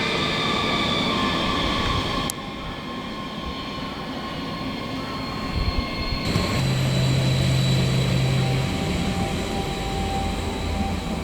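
Train in the station: a steady whine of several high tones over a rumble, which breaks off abruptly about two seconds in and gives way to a quieter rumble. In the second half a loud, steady low hum is held for about two seconds.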